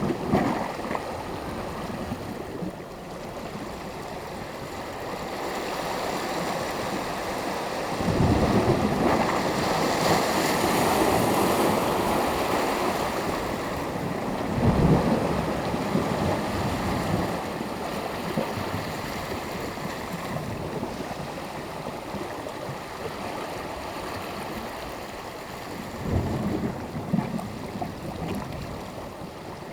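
Sea waves breaking and washing on the shore, a steady rush of surf that swells louder as the larger waves break, about eight seconds in, again around fifteen seconds, and near the end.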